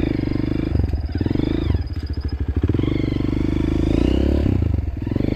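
Honda CRF150L dirt bike's single-cylinder four-stroke engine running under way on a trail. The throttle opens and closes, so the engine note dips and picks up again, about two seconds in and again near the end.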